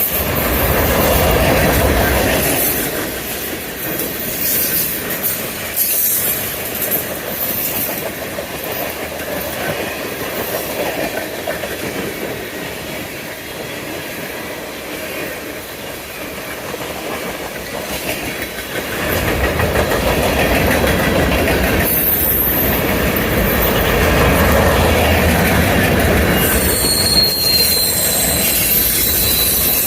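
Freight train cars rolling past on the rails, a steady rush of wheel noise with occasional clicks. The train grows louder and deeper about two-thirds of the way through, and a brief high wheel squeal comes near the end.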